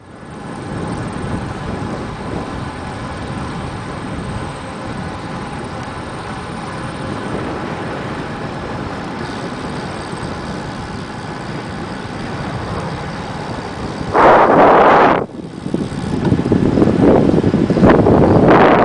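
Steady rumbling road noise while riding a bicycle. About three-quarters of the way in, wind starts buffeting the microphone in loud, ragged gusts, and it returns louder near the end.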